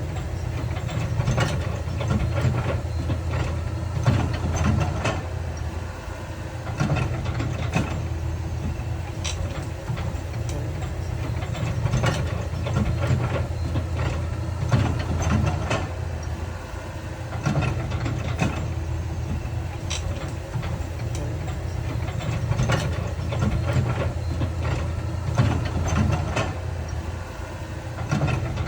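Heavy diesel construction machinery engine running steadily, with frequent sharp clanks and knocks scattered through.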